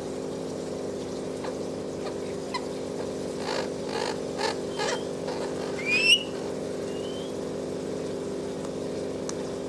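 Alexandrine parakeet calling: a run of four short notes, then a loud rising whistle about six seconds in, with a few faint chirps, over a steady low hum.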